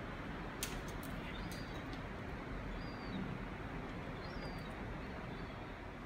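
A few short, faint, high-pitched bird chirps over steady background noise, with a couple of sharp clicks less than a second in.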